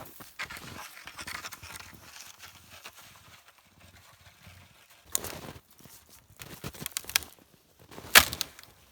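Dry firewood being handled and broken: rustling and crunching, then several sharp cracks from about halfway, the loudest one near the end.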